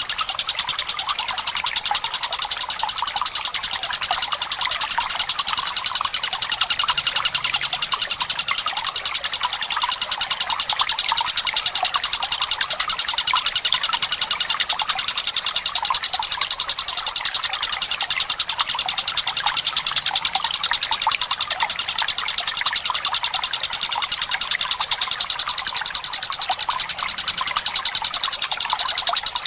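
Tengkek buto kingfisher calling in a long unbroken rapid rattling trill, over trickling water.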